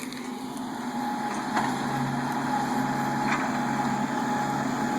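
Kubota MX5100 tractor's diesel engine running steadily.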